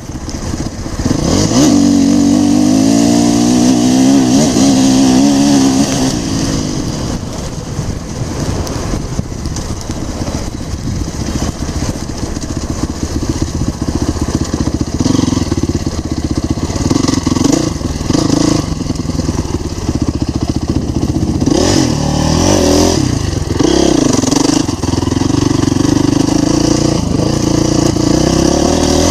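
Dirt bike engine running hard under throttle, its pitch rising and falling as the rider speeds up and backs off. The revs pick up again shortly after the start.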